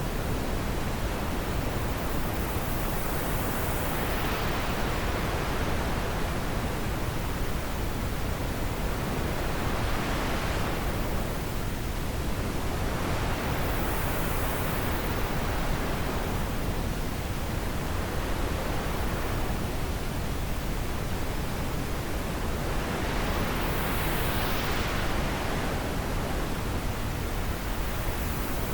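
Wind blowing: a steady rushing noise that swells and eases in slow gusts every several seconds.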